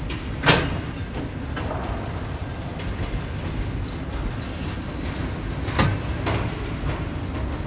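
Freight train boxcars rolling past at low speed, a steady rumble of steel wheels on the rails. Two loud clanks stand out, about half a second in and near six seconds, with fainter knocks between.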